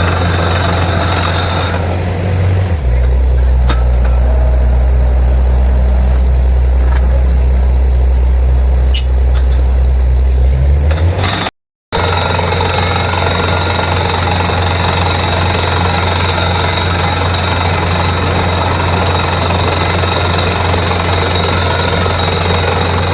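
Borewell drilling rig running with a loud, steady drone. About three seconds in, the higher clatter drops away and the drone goes deeper. After a brief dropout near the middle the fuller drilling noise returns.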